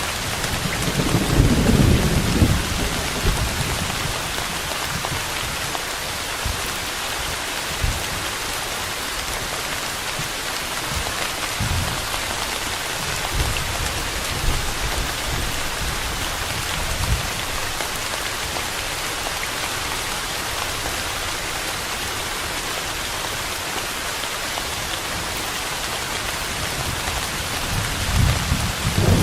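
Steady rain hissing, with low rolls of thunder rumbling from about a second in and again near the end.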